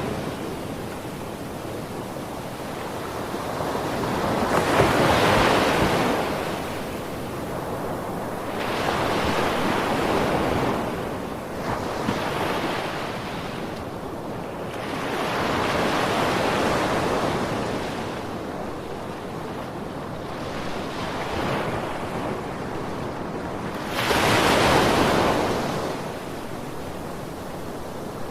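Ocean waves breaking and washing on a shore, rising and falling in swells every few seconds, the strongest about five seconds in and near the end. A light wind hiss runs underneath.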